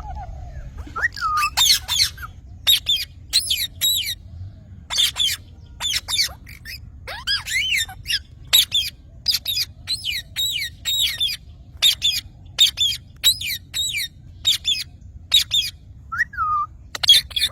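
Pet parrots giving a long series of short, shrill squawks and chirps, each with a quick up-and-down pitch glide, coming about once or twice a second with brief gaps.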